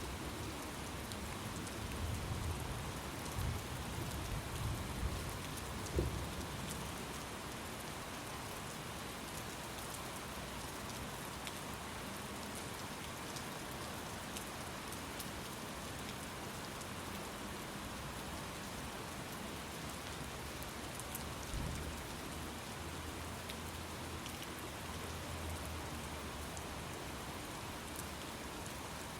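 Steady heavy rain with low rumbles of thunder swelling in the first few seconds and again past twenty seconds, and a brief low thump about six seconds in.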